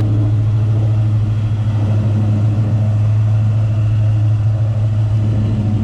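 Engine idling with a loud, steady low hum at one unchanging pitch.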